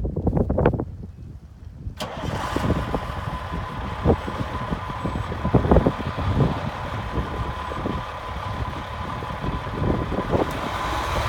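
Wind buffeting the microphone, then about two seconds in the diesel engine of a 1989 Peterbilt 375 truck comes in suddenly and keeps running steadily, as at idle.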